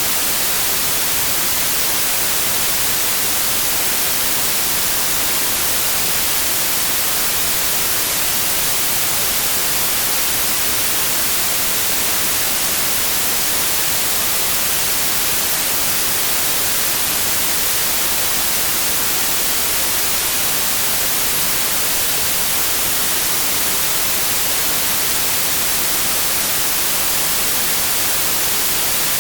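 Synthetic white noise: a steady, even hiss spread across all pitches and brightest in the treble, with no change throughout.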